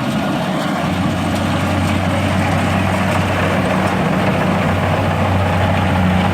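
Engine of a farm machine running steadily at an even speed, a loud low hum with no change in pitch.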